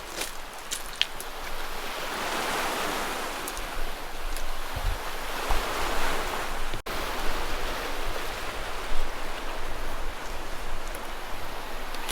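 Sea waves washing onto the shore, swelling twice in the first half, with gusts of wind on the microphone.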